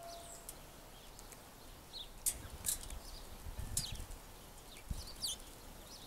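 Small birds giving short, very high chip notes and quick downslurred calls, several in a row from about two seconds in. A soft low rumble runs through the middle.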